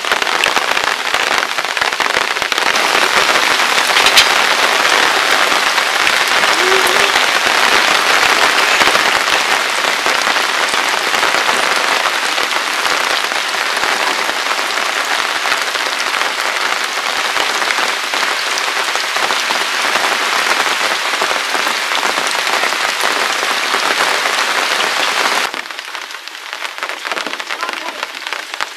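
Steady heavy rain pattering, dense and even, dropping off abruptly about 25 seconds in.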